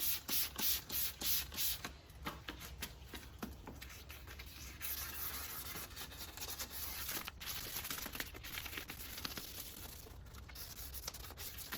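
Wet sandpaper (2000 grit) rubbing back and forth by hand over a plastic headlight lens, cutting through the yellowed UV coating: even rasping strokes about three a second at first, then about two seconds in a faster, steadier rasping.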